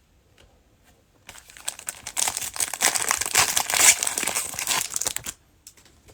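Cellophane wrapper of a trading-card cello pack being torn open and crinkled: a dense crackle that starts about a second in and lasts about four seconds.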